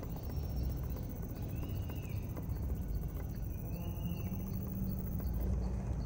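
Forest soundscape: a bird repeats a short whistle that rises and falls, about every two seconds, over a steady high chorus of crickets with faint regular ticking. A low steady rumble runs underneath.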